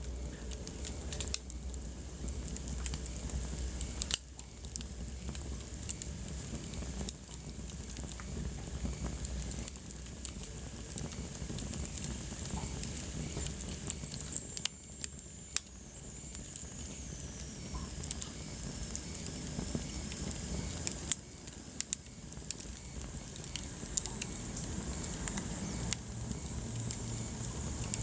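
Wood fire crackling steadily, with scattered sharp pops and snaps over a soft hiss.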